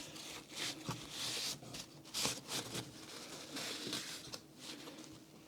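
Irregular rustling and scraping of small parts being handled on a workbench, over a faint steady hum.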